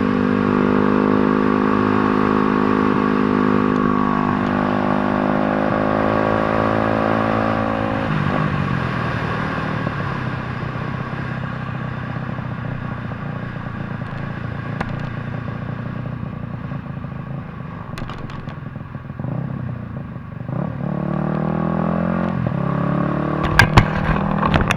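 Small-displacement dirt-bike engine running at steady revs, its pitch climbing about four seconds in, then falling away about eight seconds in to a lower, rougher note before revving up again near the end, where a few sharp knocks sound.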